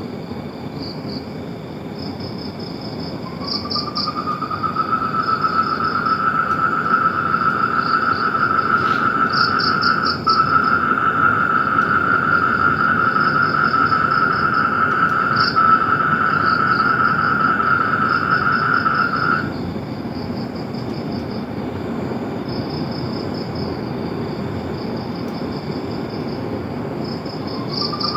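Chorus of chirping insects: high, pulsed trills repeating throughout. A steady high-pitched drone comes in about three seconds in, holds for some fifteen seconds, cuts off, and starts again near the end.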